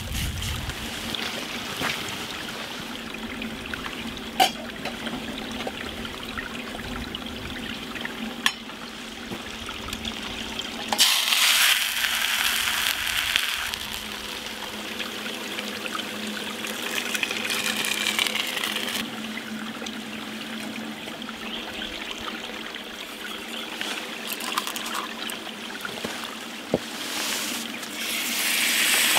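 Grated potato hash brown frying in oil in a skillet, a steady sizzle with a few sharp pops. Near the end, raw bacon strips laid into a hot pot start a louder sizzle.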